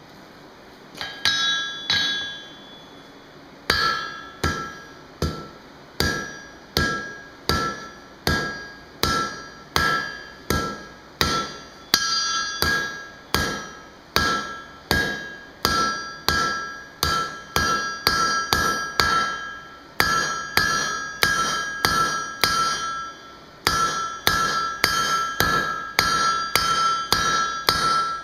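Forging hammer striking hot steel bar stock on an anvil, each blow ringing with the anvil's clear tone. A few blows about a second in, a short pause, then steady hammering at about one and a half blows a second that quickens to two or more a second in the second half.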